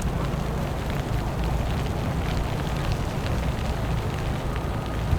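Steady outdoor city street noise: a constant low rumble under a hiss, with scattered light clicks.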